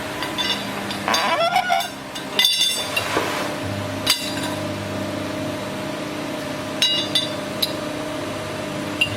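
CNC tube bending machine at work: a steady machine hum, deepening a little over a third of the way in, with about a dozen sharp metallic clanks and ringing clinks from the tooling and tube.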